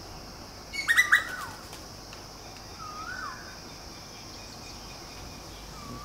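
Birds calling: a faint whistled note that rises and then falls, repeated about every two seconds, and one loud, sharp call about a second in. A steady high-pitched hiss runs underneath.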